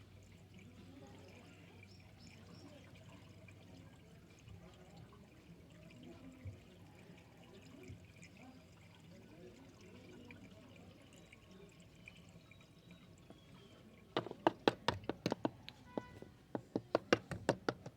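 Engine flush liquid being poured from its bottle into the engine's oil filler, a faint trickling pour. About fourteen seconds in, a quick, irregular run of sharp clicks starts and goes on to the end.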